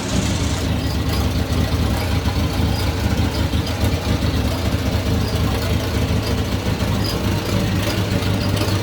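1950s Farmall A tractor's four-cylinder gasoline engine idling steadily and running smoothly, in good running condition.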